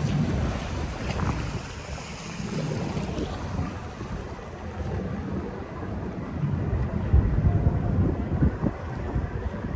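Wind buffeting the microphone in uneven gusts, a low rumble that swells and eases and is strongest about seven to eight seconds in.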